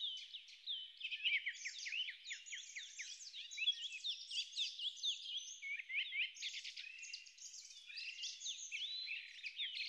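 Birds chirping: many short, high calls with quick rising and falling notes, overlapping one another.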